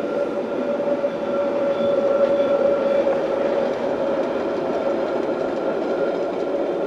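Freight wagons at the tail of a Rhaetian Railway train rolling across a stone arch viaduct: a steady rumble of wheels on rail with a steady ringing tone, easing off toward the end as the last wagons pass.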